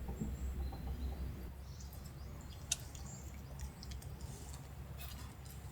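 Low rumble, with a few faint high chirps and a sharp click nearly three seconds in.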